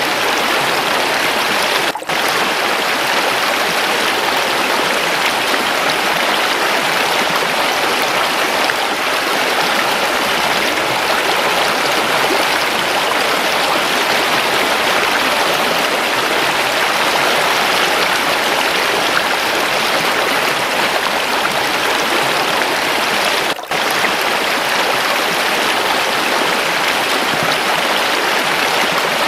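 Waterfall running water: a steady, even rush of flowing water, broken by two very brief drop-outs, about two seconds in and about six seconds before the end.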